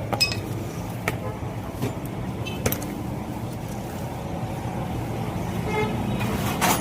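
Street traffic with engines running steadily and several short vehicle horn toots, plus a couple of sharp knocks.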